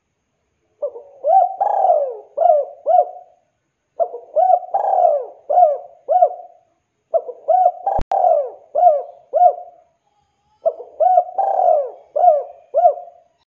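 Spotted dove (tekukur) cooing: four repeated phrases of several short, rounded coos each, with brief pauses between them. A single sharp click comes about 8 seconds in.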